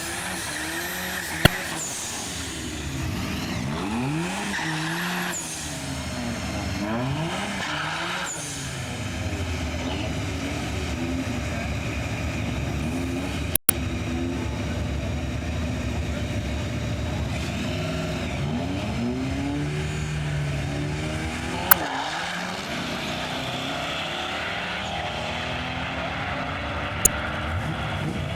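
Drag-racing vehicles at the strip, among them a turbocharged 2RZ-FE four-cylinder Toyota Tacoma, with engines revving up and down over and over. A few sharp clicks stand out, one about a second and a half in and two more near the end.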